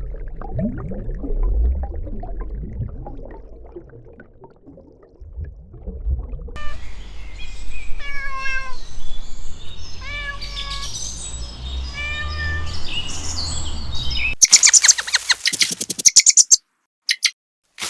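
Cat meowing: a string of short calls, each falling in pitch, about once or twice a second. Near the end it gives way to a burst of fast, high clicking chatter.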